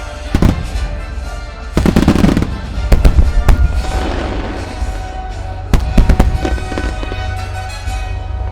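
Firework shells bursting in sharp bangs with crackling, over music that plays throughout. A dense cluster of bursts comes about two seconds in, single bangs follow about a second later, and another group bursts near six seconds.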